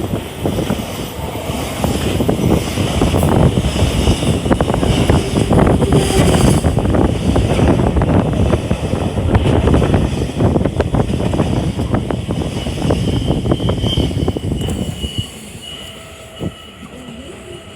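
Freight train passing close by at speed, its wagons clattering over the rail joints with a high brake squeal over the rumble. About fifteen seconds in the loud running noise drops away as the last wagon clears, leaving a fainter, fading squeal.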